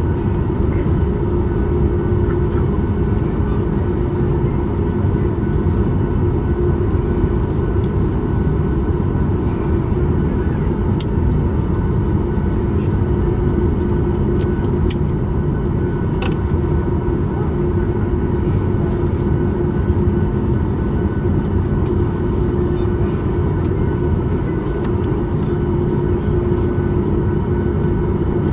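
Cabin noise of a Boeing 737 MAX 8 taxiing: its CFM LEAP-1B engines running at idle as a steady hum with a low rumble underneath, and a few faint clicks near the middle.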